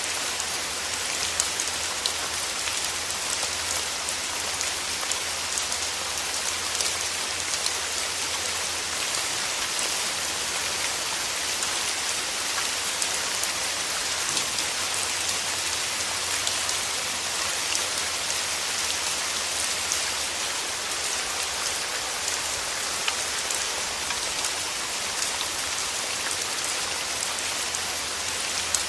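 Steady rain falling on a surface, a dense hiss of drops with individual drop ticks and occasional slightly louder patters.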